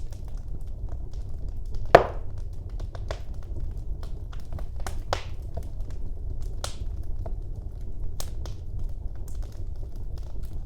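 Wood fire burning in a fireplace: a low steady rumble of flames with irregular crackles and snaps, one loud pop about two seconds in.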